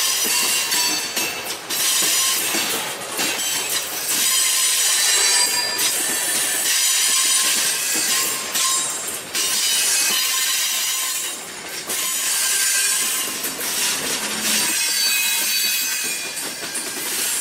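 Freight cars of a long mixed manifest train rolling past: steel wheels clattering over the rail joints, with a steady high-pitched squeal from the wheels on the rails.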